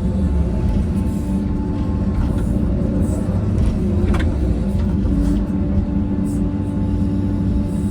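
Diesel engine of a heavy earth-moving machine running steadily under load, with a few short metallic knocks, the clearest about four seconds in.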